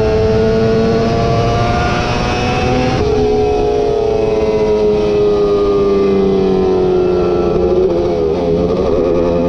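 Racing superbike engine at high revs: the pitch climbs for about three seconds, steps suddenly, then falls slowly for several seconds. The pitch wavers briefly near the end before it steadies and rises again, all over a steady rushing noise.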